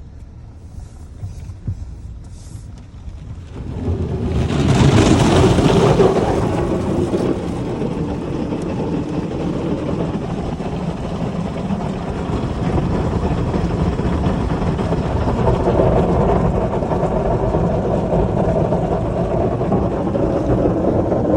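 Heavy water from a waterfall pouring down onto a car, starting about four seconds in as a loud steady rush that is strongest at first and then holds, over a low vehicle rumble.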